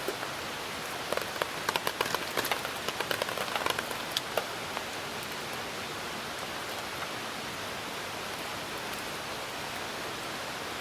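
Steady rain hiss, with a flurry of sharp crackles and pops for a few seconds near the start before they die away.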